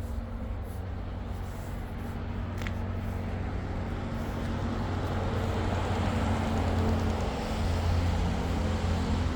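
City road traffic: a motor vehicle's engine drone and tyre noise growing louder as it comes closer, loudest near the end.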